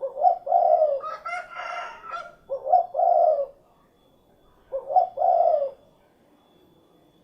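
Spotted dove cooing: three coo phrases, each a short note then a longer rolling one, with pauses of a second or more between them. About a second in, a higher, rougher call overlaps briefly.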